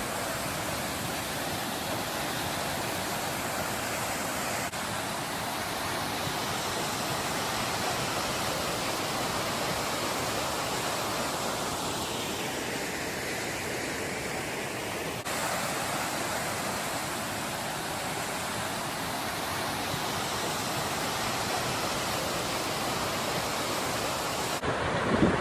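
Düden waterfall's water rushing in a steady roar, with slight shifts in tone where the shots change.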